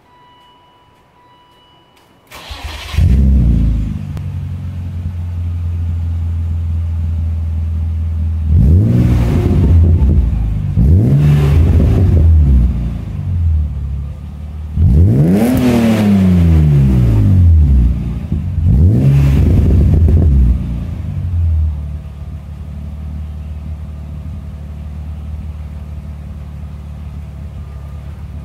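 BMW E36 328is 2.8-litre inline-six breathing through a Manzo cat-back exhaust, with stock headers and cat. It starts about two seconds in with a short flare, settles to idle, and is then revved four times, the third rev the longest and highest, before dropping back to a steady idle.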